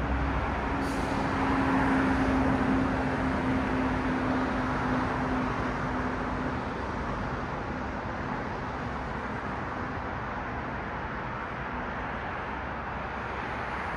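Road traffic: a passing car's tyre and engine noise swells about two seconds in and slowly fades away, with a steady low engine hum that dies out partway through.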